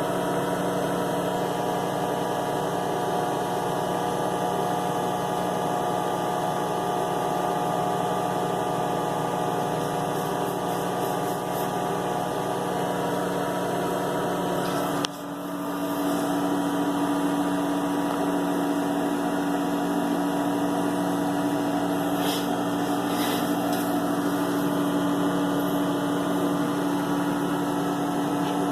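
Steady mechanical hum of a running motor with several fixed tones, cut off abruptly about halfway through and resuming with a stronger, lower tone. A few faint light clicks come near the end.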